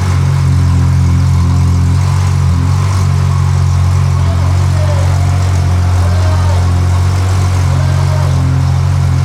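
Pagani Zonda F's 7.3-litre Mercedes-AMG V12 idling steadily, a loud, even, low exhaust note.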